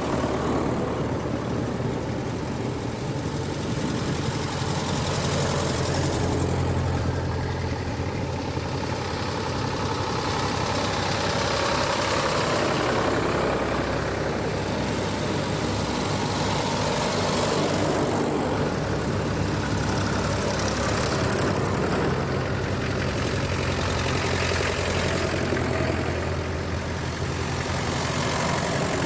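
Tractors driving past one after another, their engines running steadily, swelling and fading as each goes by about every five seconds.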